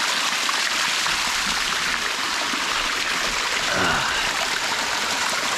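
Waterfall water running steadily over the rocks, an even rushing hiss. A voice is heard briefly about four seconds in.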